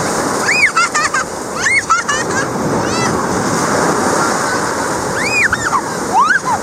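Ocean surf washing steadily onto the beach, with several short, high-pitched cries over it.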